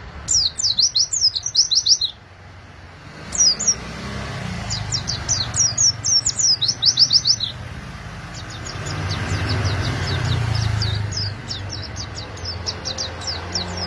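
White-eye (pleci) singing: fast chattering runs of high, quick downward-sweeping notes in several bursts with short breaks between them, over a low steady rumble.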